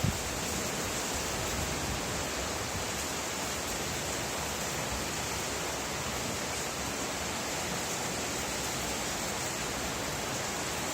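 Steady rain falling, an even unbroken hiss with no single drops standing out. A brief thump comes right at the start.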